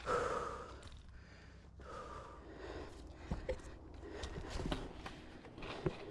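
A hiker breathing hard, with a loud breath at the start and another about two seconds in, and scattered footsteps and small knocks on the trail.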